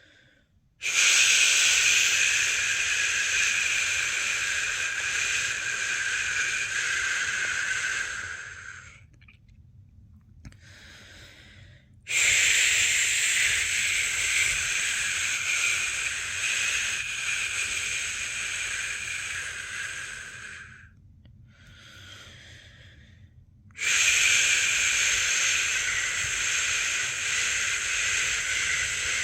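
A person shushing a baby to sleep: long, steady 'shhh' sounds of about eight seconds each, three of them, with a short pause holding a fainter, brief hiss between each.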